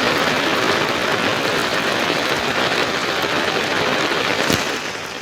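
Heavy rain falling steadily, a dense even hiss of drops, with a sharper drop tap about four and a half seconds in.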